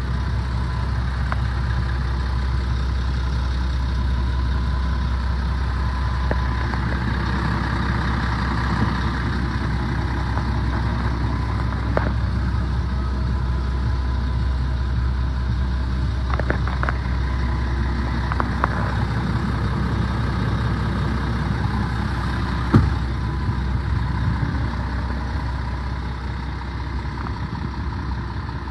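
Scania R500 truck's diesel engine idling steadily, with a few sharp clicks over it, the loudest about two-thirds of the way through.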